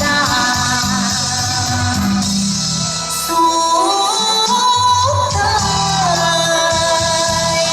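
A song: a singer holds long notes that slide from one pitch to the next, over an instrumental backing with a steady bass line.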